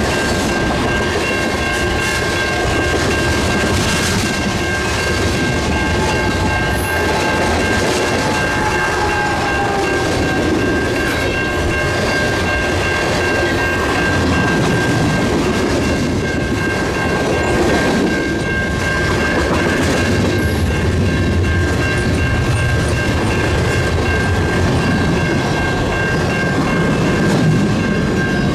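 Freight cars of a long manifest train rolling past, wheels clicking over the rail joints, with a steady high-pitched ringing tone over the rumble.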